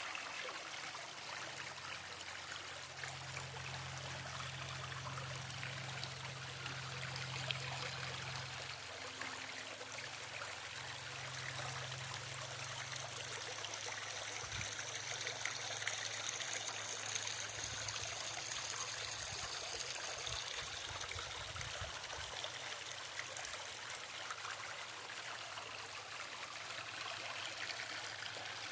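Small creek running over a little waterfall: a steady trickling, splashing flow of water.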